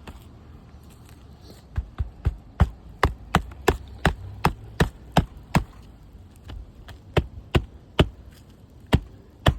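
Hammer striking repeatedly during shingle repair: a quick run of sharp blows about three a second, then slower, spaced strikes toward the end.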